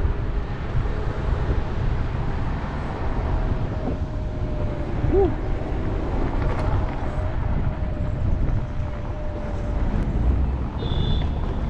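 Wind buffeting the microphone of a rider on a moving scooter, a dense low rumble throughout with a thin steady whine held over most of it.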